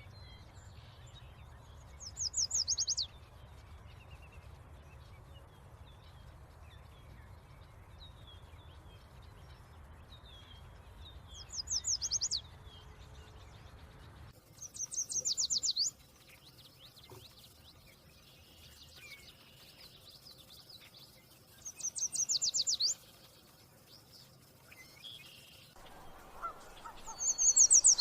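Yellow warbler singing: five short songs of quick, high, bright notes, each about a second long, several seconds apart, with faint chirps between.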